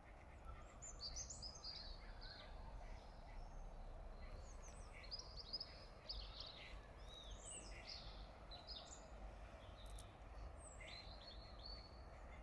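Small birds chirping and singing faintly in many short, quick phrases, over a low, steady background rumble.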